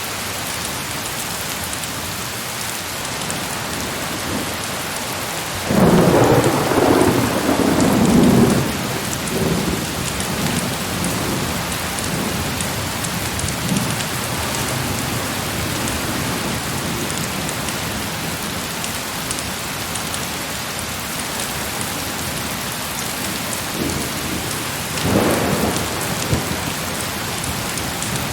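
Heavy rain falling steadily. A loud thunderclap breaks about six seconds in and rumbles on for about three seconds, and a shorter, fainter peal of thunder comes near the end.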